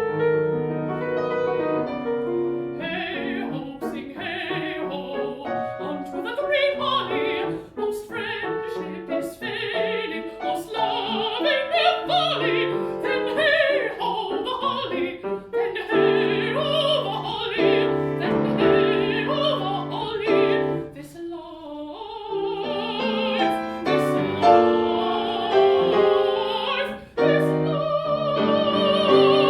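Mezzo-soprano singing a classical art song in English with vibrato, accompanied by piano.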